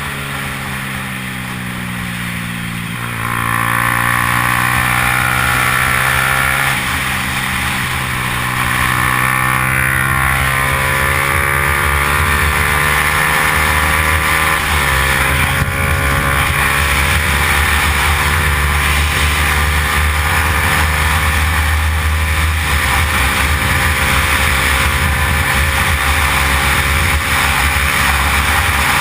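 Yamaha R15 single-cylinder four-stroke racing motorcycle engine at high revs, its pitch climbing steadily and dropping back several times as it shifts or slows, then climbing again.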